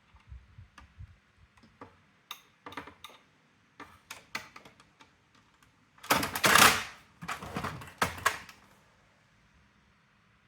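Plastic and metal parts of a Brother AX-425 electronic typewriter clicking and clattering as it is handled and taken apart. Scattered sharp clicks come first, then two louder clattering bursts of about a second each after roughly six seconds.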